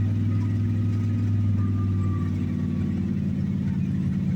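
1986 Dodge D-150 pickup's carbureted engine idling steadily just after a cold start with no choke.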